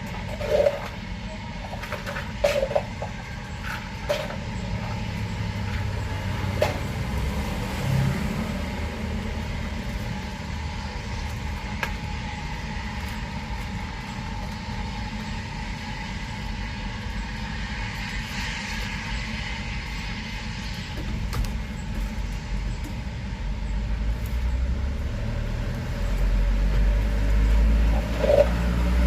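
Motor traffic passing close by, a steady low engine rumble that grows louder in the last few seconds as a vehicle comes near, with a few sharp knocks and clatters.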